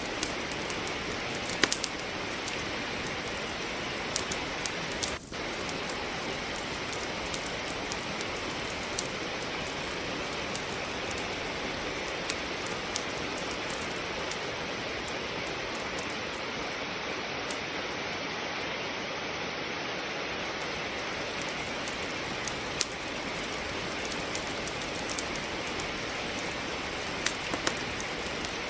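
Steady rain falling, with scattered sharp crackles and pops from firewood burning in a fireplace.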